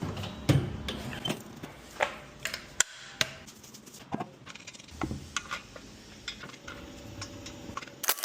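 Irregular clicks and knocks over a low rumble, changing abruptly near the end to a denser, brighter clatter.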